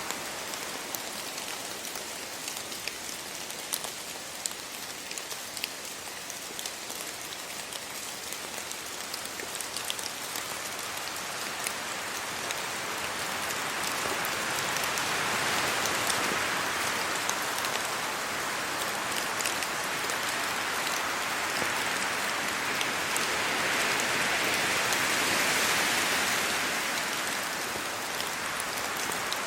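Steady rain falling on leaves and the ground, with scattered close drop taps; the rush swells twice, about halfway through and again near the end, as gusts of wind move through the wet trees.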